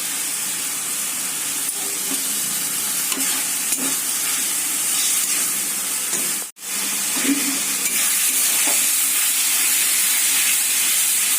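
Chopped tomato sizzling in hot oil and fried spice paste in a kadai while being stirred, a steady frying hiss with a few faint knocks of the spoon. The sound drops out for an instant about halfway through.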